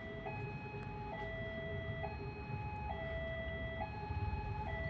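Railway level-crossing warning alarm sounding, two tones alternating low and high, each held just under a second, over the low rumble of idling engines from vehicles waiting at the crossing.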